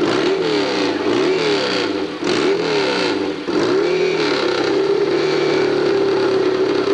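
Pro hillclimb motorcycle engine revving hard in quick repeated rises and falls for the first few seconds, then held at a steady high pitch.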